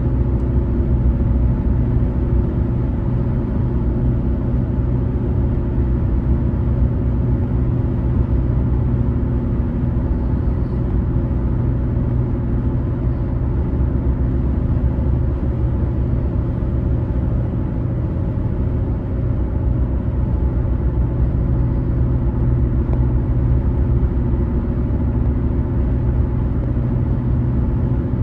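Steady low road rumble of a car driving at highway speed, with engine hum and tyre noise as heard from inside the car.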